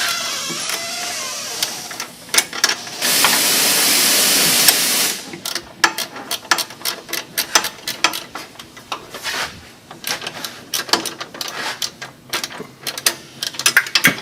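Tools working on metal under a car: a loud hiss lasting about two seconds starting about three seconds in, then a long run of irregular sharp clicks and taps of tools against steel parts.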